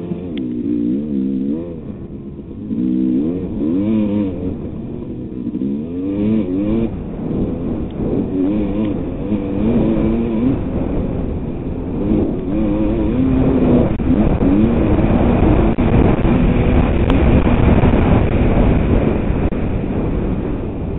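Two-stroke motocross bike engine revving up and down over and over as the throttle is worked, its pitch climbing and dropping every second or so. From about a third of the way in it runs louder and rougher, with the pitch swings flattening out.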